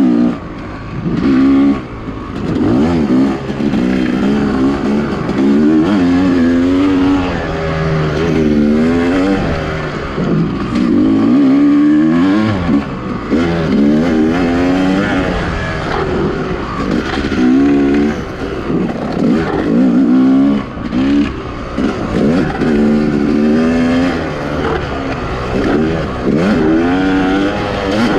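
Two-stroke dirt bike engine revving up and down over and over as it is ridden, the pitch rising and falling every second or two.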